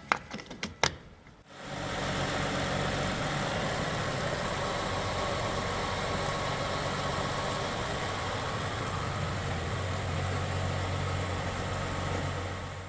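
A few sharp clicks, then from about two seconds in a Lexus IS250's 2.5-litre V6 idling steadily through an exhaust whose leaking Y-pipe section has been cut out and welded new.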